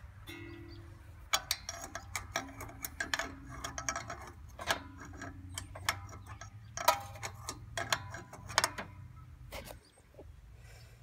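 Irregular metal clicks and knocks from tools and parts being worked loose while a burned-out riding mower is taken apart. They come in quick clusters, stopping about a second before the end.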